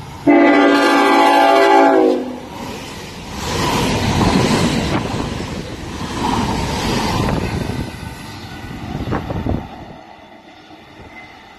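Tilt Train sounding its horn in one loud chord of about two seconds as it comes in, then running through the station at speed, a rushing rumble of wheels and air that swells and fades as the carriages go by.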